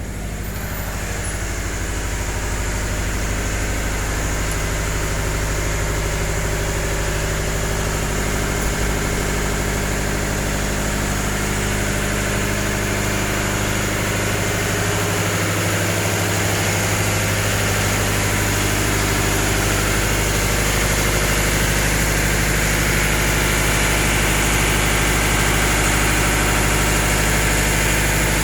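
Tugboat's diesel engines running steadily: a loud, even drone with a deep hum, swelling over the first few seconds and then holding.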